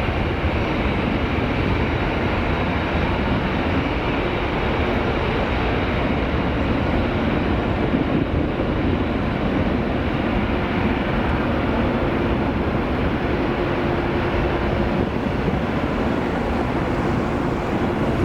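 Airbus A330-300 twin-jet engines at takeoff thrust, a steady jet roar without letup, with a faint held tone in the noise.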